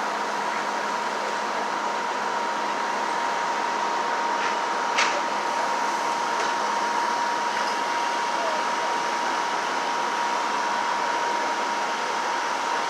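Steady machine-like hiss with a thin, steady whine running under it, and a single sharp click about five seconds in.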